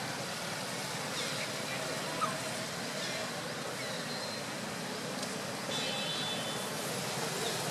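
Steady outdoor background noise with faint distant voices and a few short, faint high chirps.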